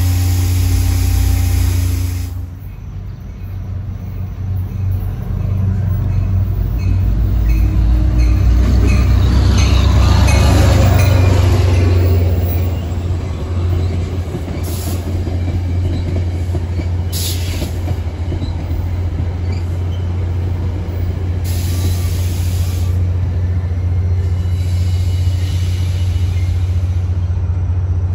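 Train running at close range: a steady low engine drone, with rail and wheel noise that swells to its loudest about ten seconds in, where the pitch sweeps downward, then eases back.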